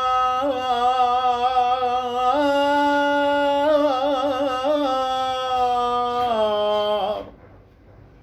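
A man's solo voice chanting a drawn-out, ornamented phrase of an Arabic Shia lament (na'i). He holds long notes with trills, steps up in pitch a little over two seconds in, and slides down to stop about seven seconds in.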